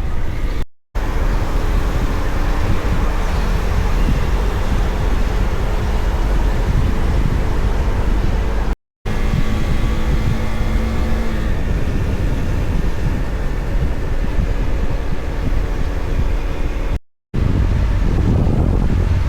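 Husqvarna Svartpilen 401's single-cylinder engine running while riding, with heavy wind rush over it. The sound breaks off sharply for a moment three times.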